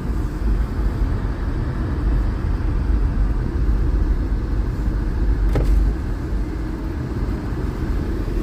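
Car driving, heard from inside the cabin: a steady low engine and road rumble, with one short click about five and a half seconds in.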